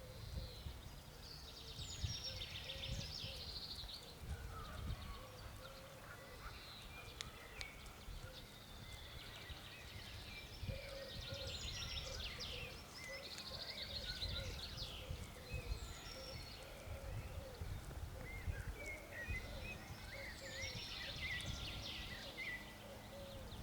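Songbirds singing, with long trilled, warbling phrases recurring about every eight to ten seconds over many softer, lower-pitched calls and a low background rumble.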